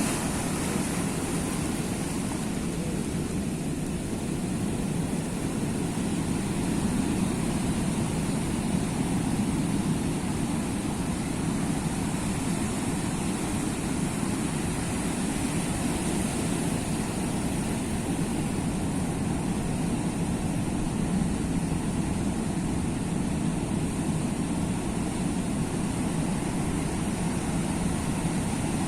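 Sea surf: a steady low roar of waves with no single breaker standing out.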